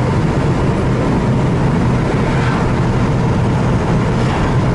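Turbocharged Subaru flat-four engine running at a steady speed while driving, heard inside the cabin together with road noise.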